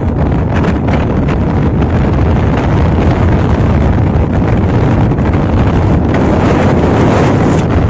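Strong wind buffeting the microphone: a loud, steady rushing noise with a heavy low rumble.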